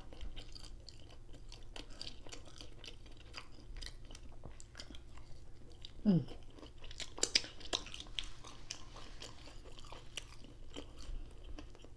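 A person chewing bites of a fried cod fish sandwich, with many small mouth clicks throughout. A short voice sound falling in pitch comes about six seconds in.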